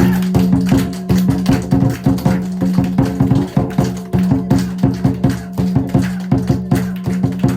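Ceremonial ritual music: a fast, even run of wood-block strikes, several a second, over a steady low held tone.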